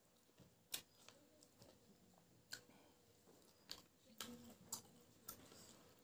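Faint close-miked mouth sounds of a person chewing a mouthful of rice and pig intestine, with a handful of short, sharp wet clicks spread through, the loudest a little under a second in.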